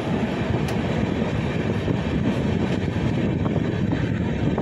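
Passenger train running on the rails: a steady low rumble of the coach and wheels, with a few faint clicks.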